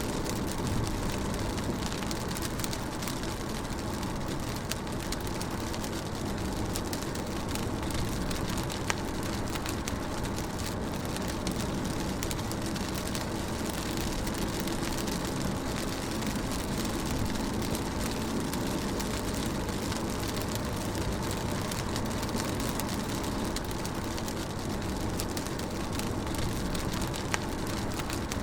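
Rain drumming steadily on a moving car's roof and windscreen, heard inside the cabin, with the low hum of the car and its tyres on wet road beneath it. A few sharper drop ticks stand out, about 9 seconds in and near the end.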